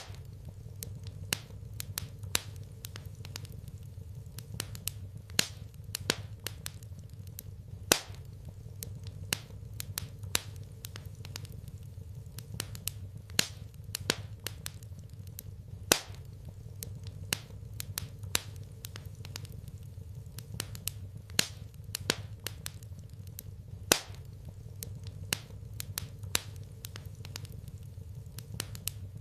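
Wood fire in a fireplace crackling, with irregular sharp pops, a few of them much louder than the rest.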